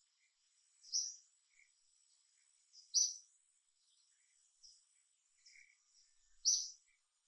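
Outdoor birdsong: a bird repeats a short, high call three times, about two to three and a half seconds apart, with quieter chirps in between, over a faint steady high hiss.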